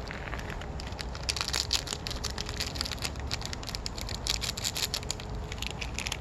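Irregular crackling and rustling: many small close-together clicks over a low rumble.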